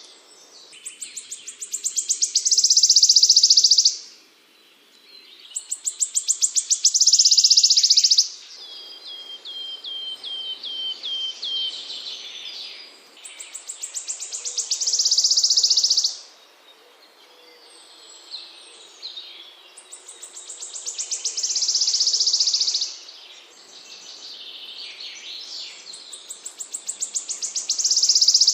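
A small songbird singing a repeated song: ticks that speed up and run into a high, buzzy trill lasting two to three seconds, five times over. After the second trill comes a run of short falling notes.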